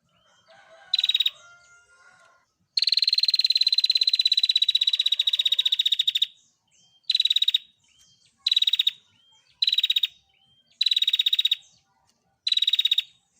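Female prinia (prenjak) giving its rapid rattling trill. A short trill comes about a second in, then one long trill of about three and a half seconds, then five short bursts about a second apart. Faint chirps from other birds fall between the trills.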